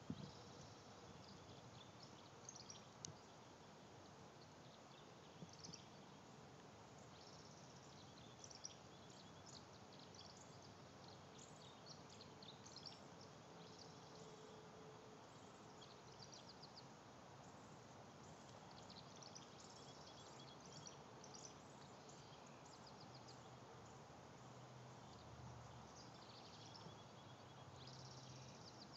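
Near silence: a faint steady hiss with scattered faint bird chirps and short trills.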